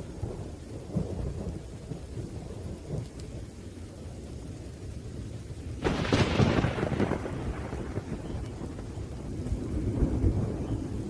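Thunderstorm: low rolling thunder rumbling under rain, with a sharp thunderclap about halfway through that dies away over a second or two. The rumble swells again near the end.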